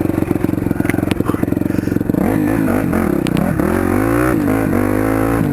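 1999 Yamaha YZ400F four-stroke single-cylinder dirt bike engine idling with a fast even pulse. About two seconds in, it starts revving up and down as it is put into gear and ridden off without a clutch, its clutch cable snapped.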